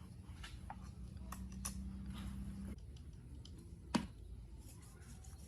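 Scattered light clicks and taps of hand work on metal parts, with one sharp tap about four seconds in. A low steady hum runs for about two seconds near the start.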